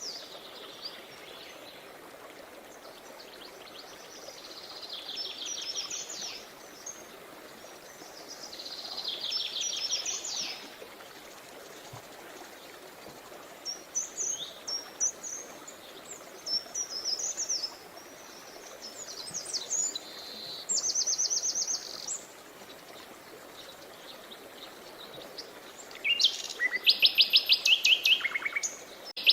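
Songbirds singing: phrases of rapid, evenly repeated high notes every few seconds, the loudest near the end, over the steady rush of a river.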